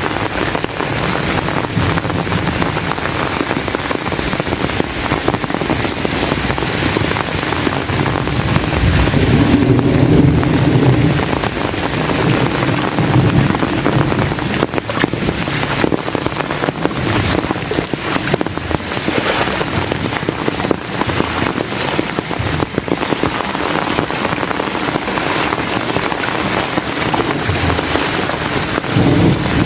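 Heavy rain falling steadily, a dense even hiss throughout, with low rumbling swells about ten seconds in and again near the end.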